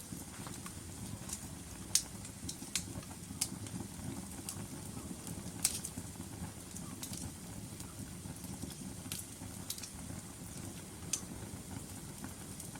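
Log fire burning with a steady low rumble and irregular sharp crackles and pops, the loudest about two seconds in and again near the middle.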